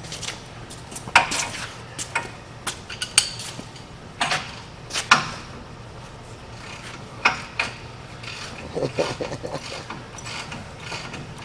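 Scattered clinks and knocks of hand tools and parts being handled, about eight sharp hits at uneven spacing.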